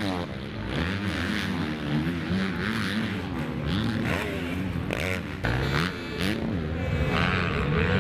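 Several motocross bikes' engines revving, their pitch rising and falling over and over as the riders work the throttle.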